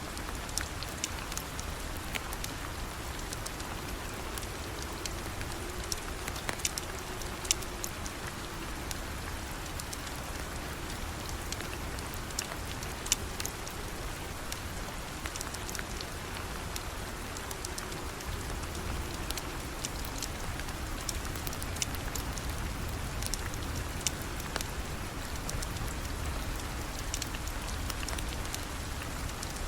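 Steady rain falling, with many scattered sharp ticks and pops throughout.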